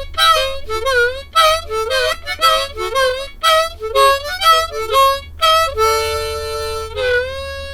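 Harmonica playing a fast run of short notes with bent pitches, then two long held notes near the end, the last one ringing on.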